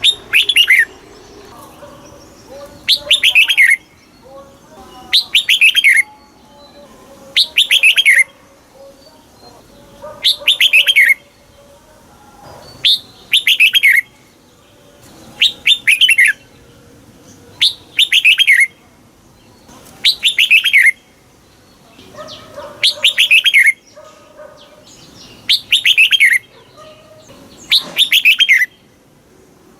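Red-whiskered bulbul singing, repeating a short phrase of quick notes that fall in pitch, about every two and a half seconds.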